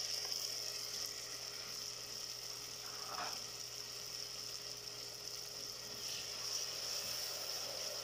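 Ginger-garlic paste and chopped onions sizzling steadily in hot oil in an aluminium pot, stirred with a spatula.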